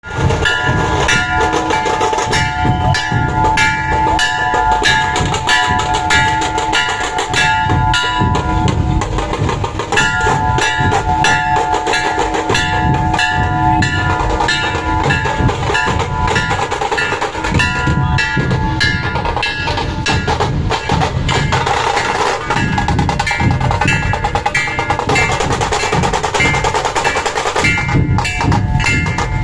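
Dhol-tasha drumming: a group of dhol barrel drums and tasha kettle drums beating a fast, continuous rhythm, with steady ringing tones over the drums that fade about halfway through.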